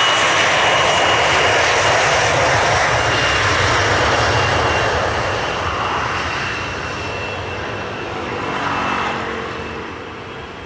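Cessna 750 Citation X twin-turbofan jet running loud, with a steady high turbine whine over the roar, then fading away over several seconds as it moves off.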